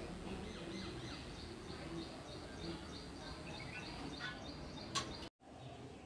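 Small birds chirping: a short high chirp repeated several times a second, with a few falling chirps, over a faint outdoor background. A spoon clinks once on a steel plate about five seconds in.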